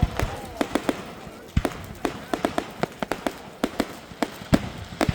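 Fireworks going off: a rapid, irregular string of sharp bangs and cracks, with heavier booms at the start, about a second and a half in, and near the end.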